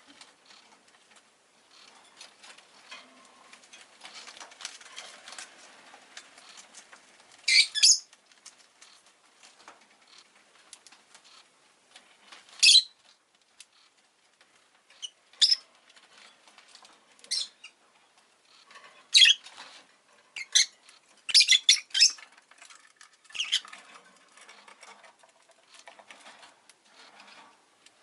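Rosy-faced lovebird giving short, sharp high-pitched chirps scattered every couple of seconds, with a quick run of several together about two-thirds of the way through. Faint rustling and scratching between the calls.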